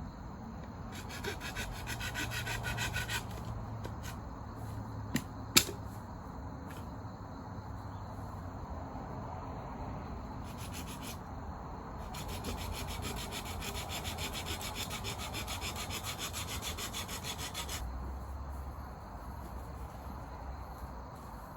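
Fast rasping strokes on wood in spells: a short spell early on and a long one from about 12 to 18 s, with one sharp snap near the middle.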